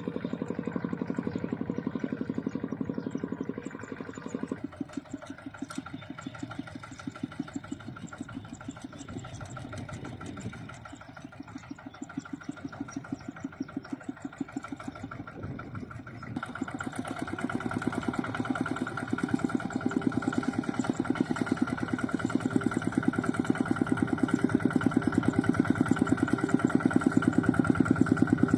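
Mini tractor engine running with a steady, even putter while plowing mud. The sound drops abruptly about four seconds in, then steps up and grows louder from about sixteen seconds on.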